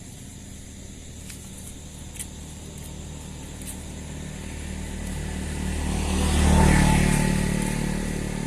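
A motor vehicle approaching and passing close by: its engine and tyre noise grow steadily louder, peak about six and a half seconds in, then fade away.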